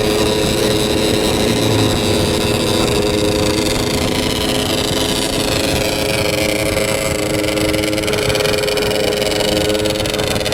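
Motorcycle engine running steadily under way, its note holding at a fairly even pitch over a rough low rumble.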